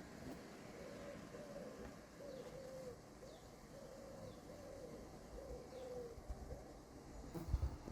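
Pigeon cooing: a run of about eight low coos in a row. Faint high chirps from a small bird sound now and then, and a couple of low thumps come near the end.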